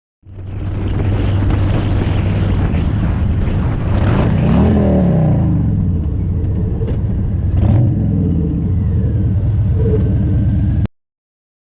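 A car driving with a steady low engine and road rumble. Around the middle a pitch falls away like a vehicle passing close by, and there are two short knocks later on before the sound cuts off suddenly.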